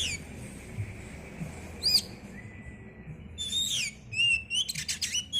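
Oriental magpie-robin (kacer) singing loud, sharp whistled phrases in 'nembak' style, the aggressive rapid-fire song. There is a single sharp note about two seconds in, then a quick run of phrases with rapid clicking notes near the end.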